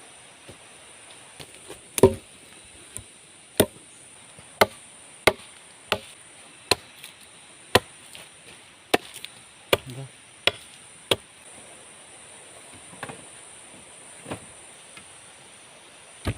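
Wood being chopped with a blade: about a dozen sharp strikes roughly once a second, then a few scattered ones near the end. A steady high insect drone runs underneath.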